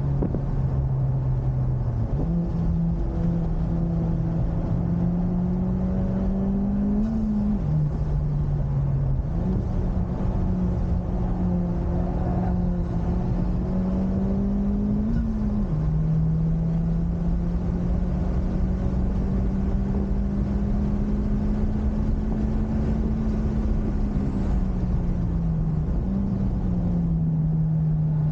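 Honda Civic Type R FK8's turbocharged 2.0-litre four-cylinder engine driven hard on track. The engine note climbs slowly through the revs, then drops or jumps suddenly at gear changes, about five times.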